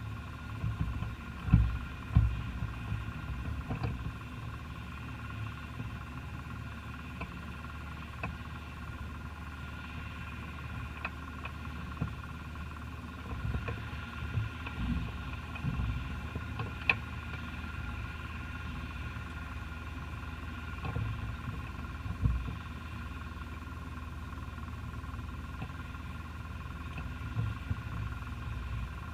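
Cessna 172 Skyhawk engine and propeller drone, steady throughout, with a few short low thumps.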